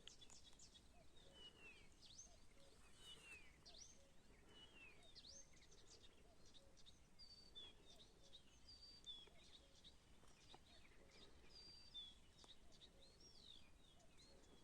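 Several songbirds singing and calling together, a quiet morning chorus of many short chirps and whistles, some rising and some falling, over a faint outdoor hiss.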